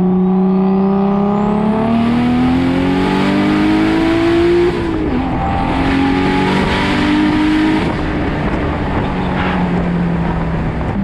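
Turbocharged BMW M52 inline-six with a Precision 6266 turbo accelerating hard. The revs climb for about five seconds with a rising turbo whistle, drop at a gear change, and climb again for about three seconds. The engine then falls back to a steady, lower drone.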